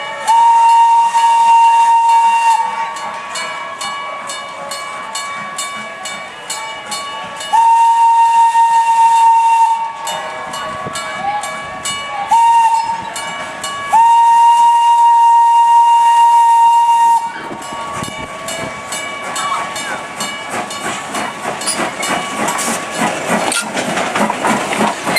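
Steam locomotive whistle blowing four blasts, long, long, short, long, the standard grade-crossing signal, on one steady tone over a continuous hiss of steam. Toward the end, broad rumbling train noise grows louder.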